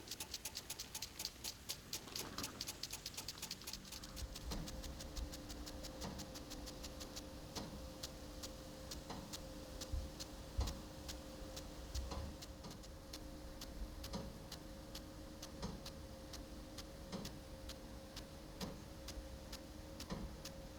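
Irrigation sprinkler ticking: rapid ticks for the first couple of seconds, then slower ticks about once a second. A steady low hum runs under the ticks from about four seconds in.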